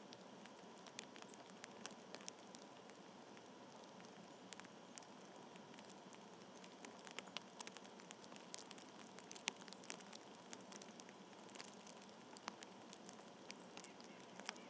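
Very faint steady hiss with many small, irregular clicks and taps, a few sharper than the rest, coming thicker about halfway through.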